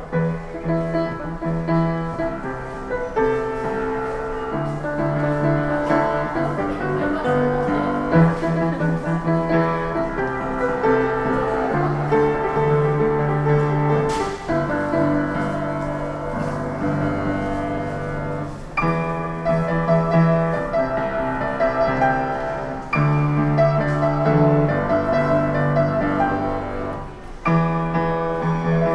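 Solo piano playing a pop tune, with held bass notes under dense chords and a melody, in phrases that break off briefly every few seconds.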